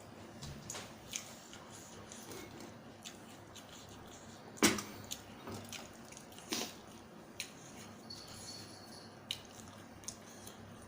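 Wet eating sounds with scattered sharp clicks, the loudest about four and a half seconds in and another a couple of seconds later.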